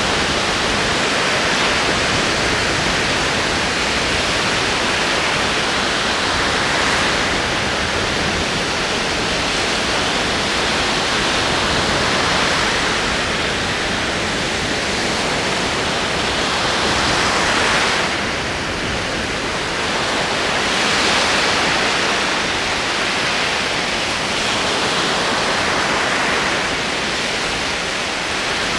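Ocean waves rolling onto the shore: a continuous wash of surf that swells and eases every few seconds.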